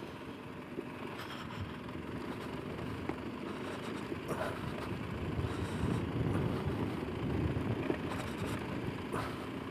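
Motorcycle riding slowly, its engine running under a steady rumble of wind on the microphone, with a few short rattles over the rough road.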